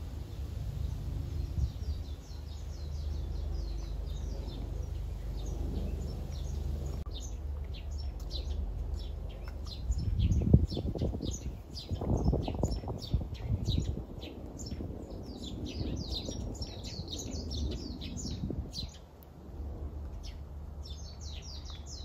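Small birds chirping in quick, short, high calls, sparse at first and much busier from about a third of the way in, over a steady low rumble that swells around the middle.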